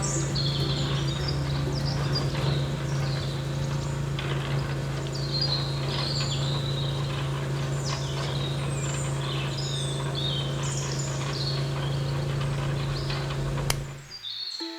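Birds chirping and twittering in quick, repeated short calls, over a steady low hum that cuts off near the end.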